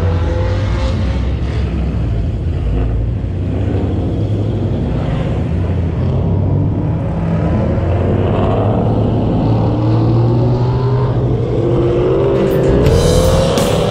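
Chevrolet Camaro SS V8 running at low speed, then rising in pitch as it accelerates near the end, with wind noise coming in.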